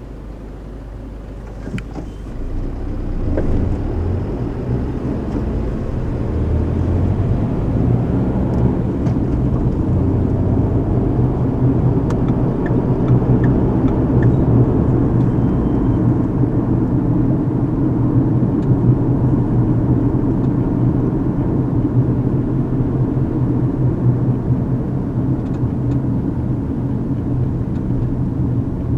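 Car road noise heard from inside the cabin: a low engine hum and tyre rumble. It grows louder over the first several seconds as the car picks up speed, then holds steady.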